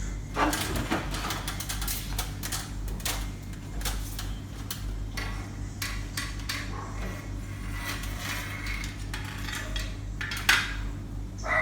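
Irregular metallic clinks and knocks, the loudest about ten seconds in, over a steady low hum.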